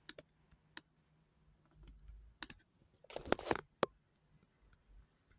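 A few scattered sharp clicks, then a short, rapid clatter of clicks a little past three seconds in.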